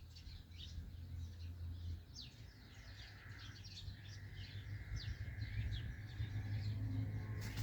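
Small birds chirping, many short quick falling chirps over a low steady hum.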